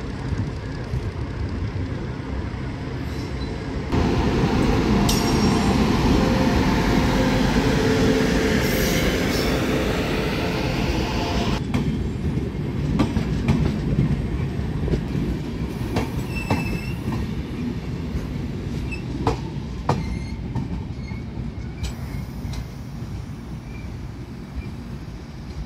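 Passenger train passing close by on the station track. It gets suddenly loud about four seconds in with a heavy rush of wheels on rail. After about twelve seconds it turns to sharp wheel clacks and a few brief high squeals, fading as the last coaches roll away.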